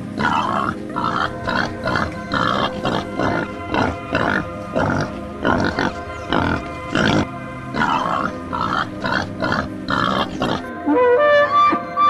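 An animal's short calls, repeated about twice a second, over steady background music; near the end the calls stop and a wind-instrument melody takes over.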